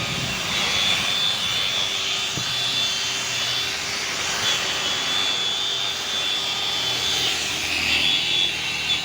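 Car-wash machine running steadily: a high whine over a rushing hiss.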